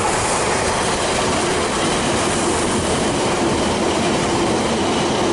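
A train running along the track: a steady, even rumble of wheels on rails with a faint held tone.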